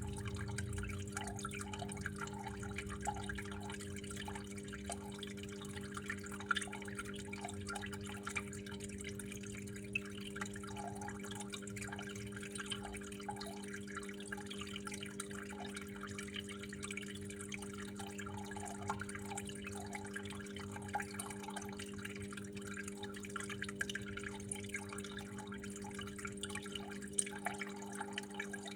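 Water trickling and dripping continuously, many small plinking drops over a steady flow, with a steady low hum underneath.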